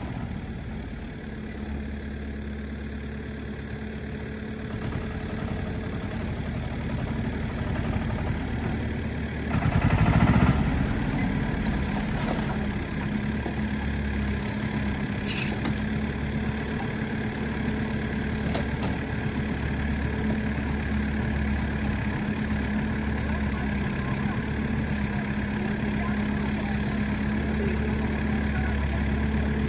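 Backhoe loader's diesel engine running steadily, with a brief rise in revs about ten seconds in.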